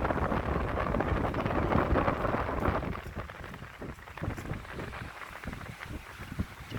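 Wind buffeting the microphone in gusts, louder for the first three seconds and then easing off.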